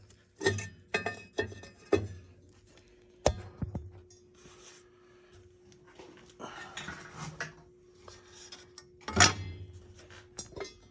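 Metal clanks and clinks of gas boiler burners being handled and knocked during cleaning: a handful of sharp separate knocks, the loudest about nine seconds in, over a faint steady hum.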